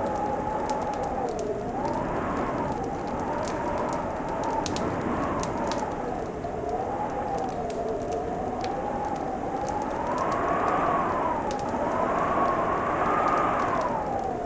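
Wood fire crackling with frequent sharp pops and snaps, over a howling winter wind whose whistling pitch slowly rises and falls.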